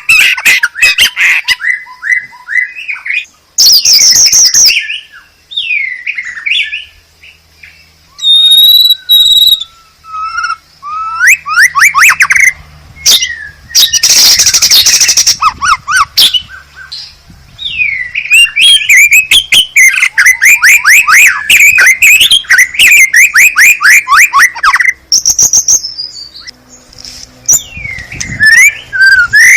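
White-rumped shama (murai batu) singing a long, varied song: whistled glides and trills broken by harsh chattering bursts about four seconds in and again near the middle, then a long run of fast repeated notes.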